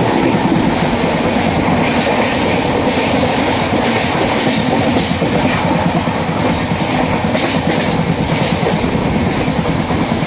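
Moving train heard from aboard a coach: a steady rumble and rush of the running train, with irregular clatter of the wheels over the rail joints.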